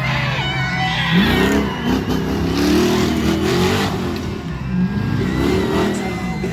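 Monster truck engine revving up and down several times, its pitch rising and falling with each blip of the throttle.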